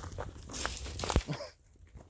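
Footsteps crunching through dry twigs and branches, with a heavier thump a little over a second in.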